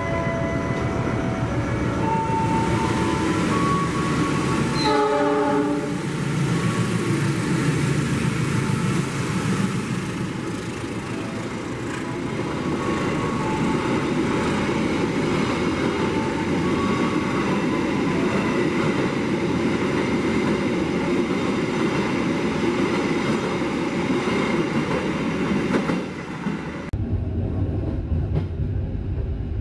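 Passenger trains in a station: a run of horn-like tones at changing pitch over the first seconds, then a short horn blast about five seconds in. After that comes the steady rumble and clatter of cars rolling past. Near the end the sound drops to a lower, duller rumble.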